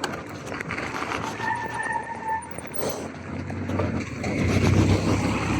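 A car coming up from behind and passing the bicycle on a wet road, its engine and tyre noise building and getting louder about four seconds in, over a steady hiss of wind and rain on the microphone.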